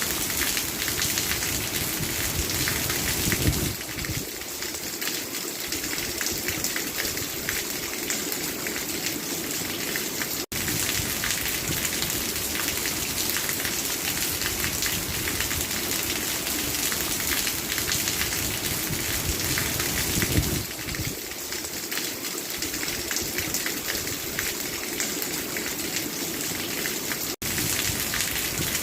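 Steady rainfall: an even hiss of rain with a dense patter of drops striking a surface. It cuts out for an instant twice.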